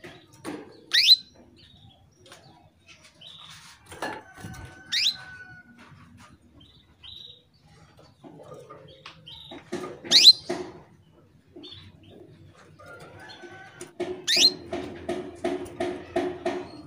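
Female canary calling: four sharp, fast upward-sweeping call notes spaced a few seconds apart, the call of a hen in breeding condition summoning a male. Near the end comes a quick run of lower pulsed notes, about four a second.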